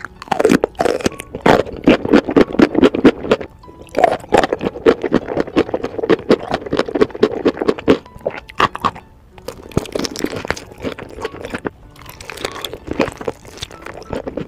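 Close-miked chewing and crunching of food: a dense run of rapid crisp crunches and wet mouth sounds, with a short lull about nine seconds in.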